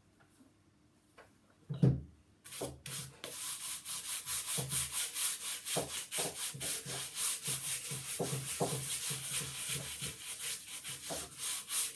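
Sandpaper rubbed back and forth on a wooden tabletop in quick, even strokes, starting about two and a half seconds in. Just before it there is a single knock, the loudest sound.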